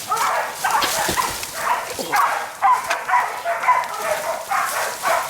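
Pig-hunting bay dogs barking in a fast, unbroken run, about three barks a second: the sound of the dogs holding a boar bailed up.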